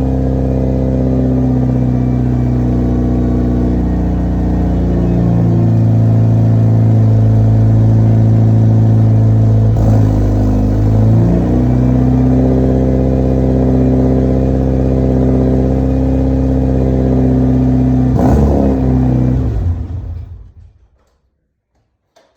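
Mitsubishi Lancer Evo IX's turbocharged 4G63 four-cylinder running at idle after a cold start, through a straight-through superSprint Group N exhaust with no catalytic converter. The note is loud and steady, with brief wavers about ten and eighteen seconds in. The sound dies away near the end.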